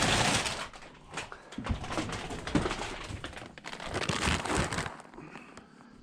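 A feed bag being handled and lifted, crinkling and rustling in several spells, with a few dull thumps.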